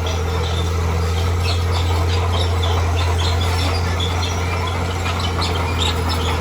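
Bulldozer's diesel engine running steadily with a deep drone, with many short, high chirps scattered over it.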